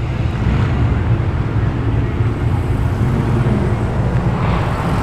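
Car engine running steadily as the car rolls slowly past, a continuous low rumble.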